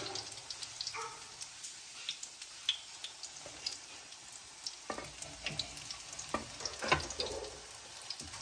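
Breaded chicken nuggets shallow-frying in oil in a pan, sizzling with many small pops and crackles. A metal spatula knocks and scrapes against the pan a few times in the second half, loudest about seven seconds in.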